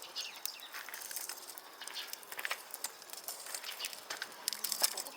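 Wood fire crackling, with many irregular sharp pops and snaps over a faint hiss.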